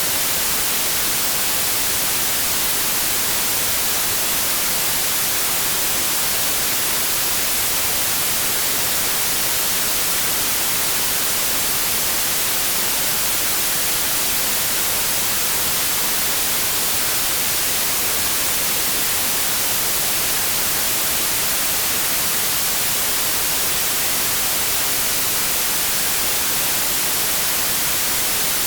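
Pure white noise: a steady, even hiss, strongest in the treble, with no change.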